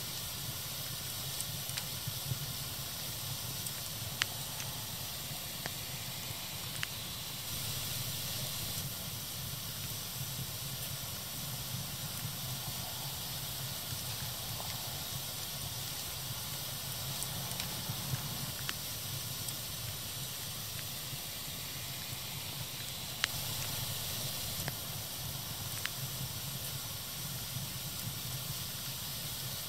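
Fire crackling: a steady hiss with scattered sharp pops every few seconds.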